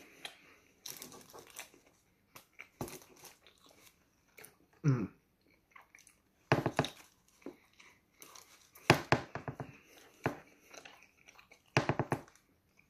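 Close-up mouth sounds of a man chewing a McDonald's Junior Chicken sandwich with its breaded chicken patty, along with crinkling of its paper wrapper. The sounds come in scattered short bursts with quiet gaps between them, the loudest cluster about nine seconds in.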